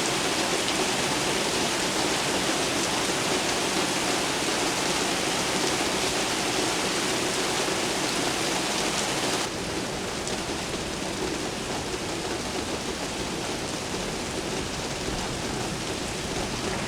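Steady rain falling, an even hiss with no thunder. About halfway through it abruptly turns a little quieter and duller.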